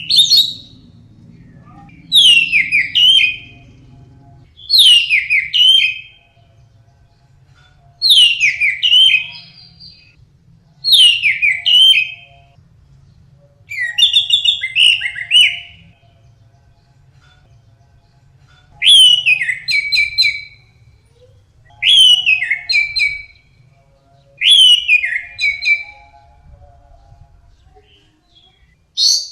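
Orange-headed thrush (anis merah) singing: short phrases of quick, sliding whistled notes, each about a second and a half long. The phrases repeat every two to three seconds, with a longer pause about halfway through.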